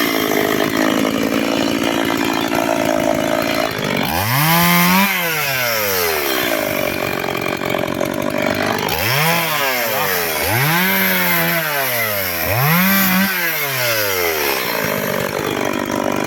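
Chainsaw cutting wood, held at high revs at first, then revved up and let fall back again and again, about four times in the second half.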